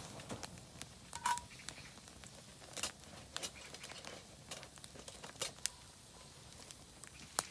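Oak firewood burning in a campfire fire pit, crackling with irregular sharp pops and ticks over a faint steady hiss. A brief whistle-like note sounds about a second in.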